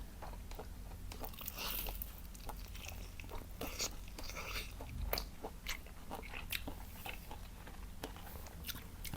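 A person biting and chewing crunchy fried chicken close to the microphone, with irregular crackling crunches.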